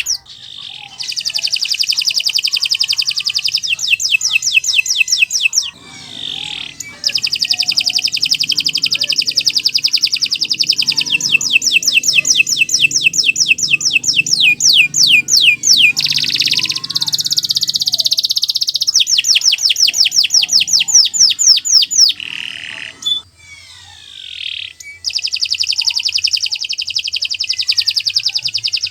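Domestic canary singing a long song of fast, rolling trills. The song comes in phrases several seconds long, separated by brief pauses.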